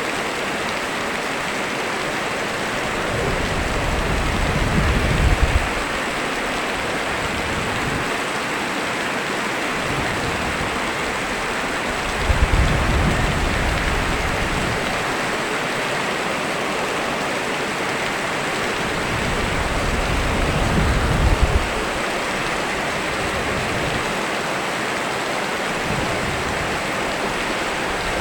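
Steady rain, a dense even hiss, with a low rumble swelling up and fading three times, about every eight seconds.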